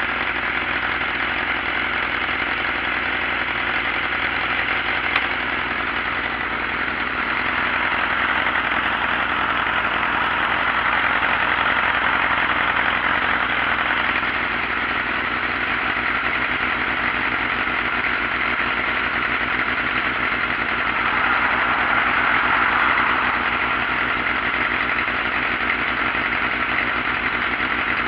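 Sport bike engine idling steadily, swelling slightly twice.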